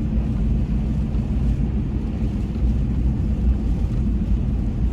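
Steady low rumble of a vehicle's engine running, mixed with wind noise.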